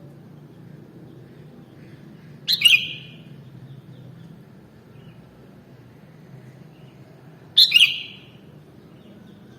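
Sooty-headed bulbul (kutilang) giving two short, bright calls about five seconds apart, over a steady low background hum.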